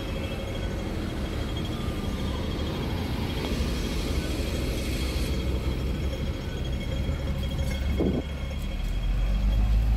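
Steady low rumble of vehicles, getting heavier near the end, with a brief higher sound about eight seconds in.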